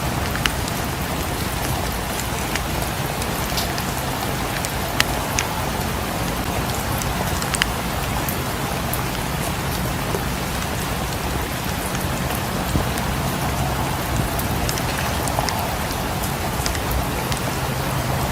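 Steady rain, an even hiss, mixed with the crackle of a wood fire: scattered single sharp pops every second or two.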